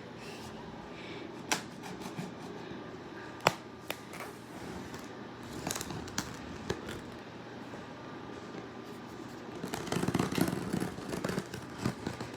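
Packaging being handled by hand: a few sharp clicks and knocks, then a louder stretch of scraping and rustling near the end.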